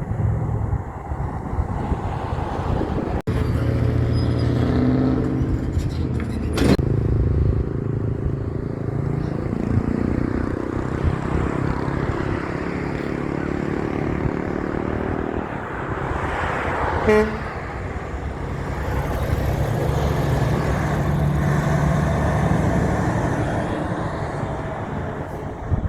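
Big trucks passing on a road, their engines running loud and steady, with a short horn toot about two-thirds of the way through.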